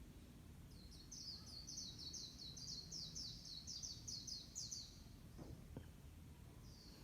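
A songbird singing a fast trill of repeated high, down-slurred notes, about four a second, starting about a second in and lasting about four seconds.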